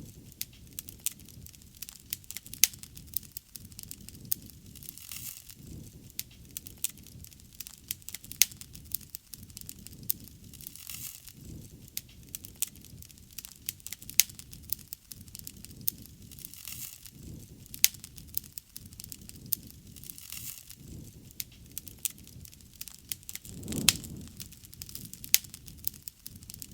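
Wood fire burning, its logs crackling and popping in sharp irregular snaps over the low rush of the flames. About three-quarters of the way through the flames swell in a brief louder whoosh.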